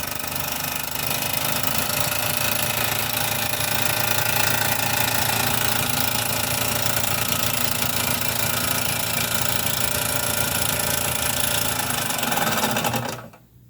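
Mamod TE1a model steam traction engine running under steam, its single oscillating cylinder giving a steady, rapid chuffing and mechanical clatter. The sound dies away near the end.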